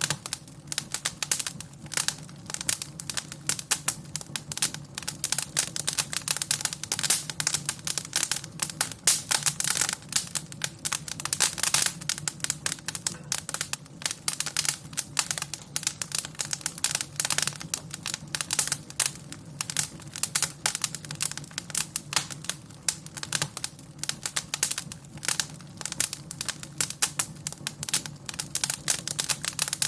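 Wood fire crackling, with dense irregular pops and snaps over a low steady rumble.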